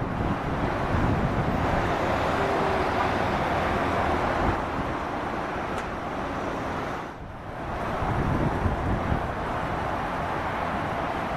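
Jet engine noise from a departing Boeing 777-300ER with GE90 turbofans: a steady, loud rush, with wind on the microphone. The sound dips briefly about seven seconds in, then comes back.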